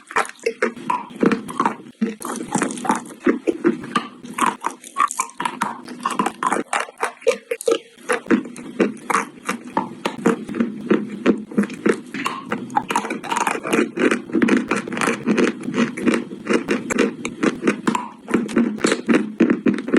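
Close-miked chewing and crunching of chalk in the mouth: a dense run of rapid, irregular crunches and crackles.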